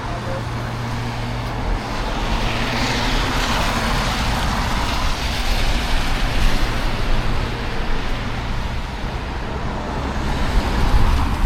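Road traffic passing on a wet road, with tyre hiss and a low engine hum. The noise swells as a vehicle goes by about two seconds in, and again near the end.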